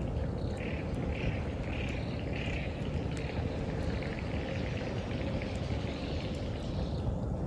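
Bonfire burning with a low steady rumble and a few faint crackles, while autumn insects chirp in a regular pulsing rhythm, about two chirps a second.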